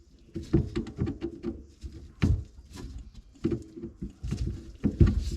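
A run of irregular knocks, taps and clacks, like hard objects being handled and set down, with a few sharper clacks about two seconds in and near the end.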